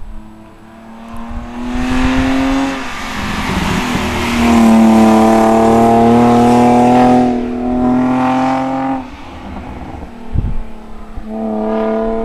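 1992 BMW 325is's 2.5-litre straight-six through a Magnaflow exhaust, pulling hard under acceleration in long runs, the note dropping at each gear change, about three seconds and nine seconds in, before climbing again near the end.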